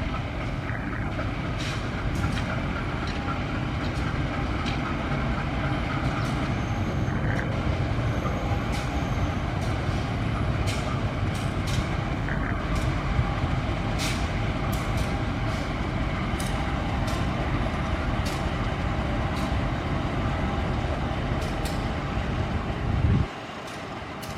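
A train passing close by: a steady heavy rumble with irregular sharp clicks of the wheels over rail joints and faint high wheel squeal. It cuts off abruptly about a second before the end.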